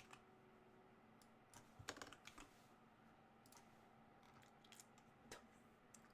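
Faint typing on a computer keyboard: a short run of keystrokes about two seconds in, then a few scattered single key clicks.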